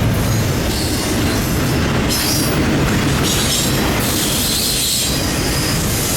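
Freight train cars rolling past on the rails with a steady low rumble, and wheel squeal rising and falling in patches.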